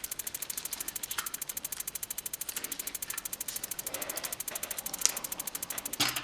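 Rapid, even mechanical clicking, about a dozen clicks a second, with a couple of louder knocks near the end.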